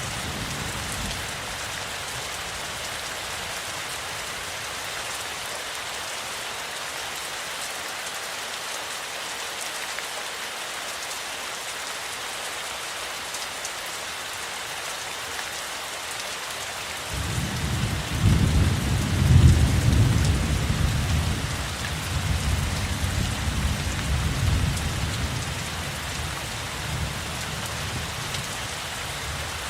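Steady heavy rain falling. About halfway through, a long low roll of thunder builds, peaks within a few seconds and dies away over about eight seconds.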